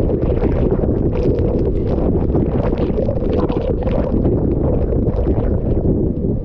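Typhoon eyewall wind buffeting the microphone as a steady, heavy rumble, with gusts of driven rain and spray lashing through it.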